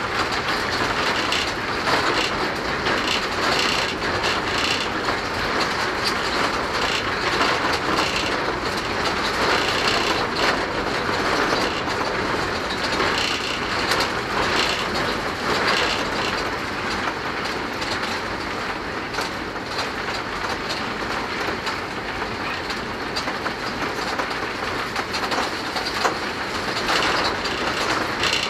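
Diesel locomotive running steadily at speed, heard from inside its cab: a continuous rumble and rattle with the wheels clicking over the rails.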